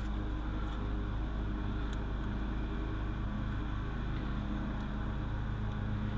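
Steady low rumble and hum, even throughout, with no distinct knocks or clicks.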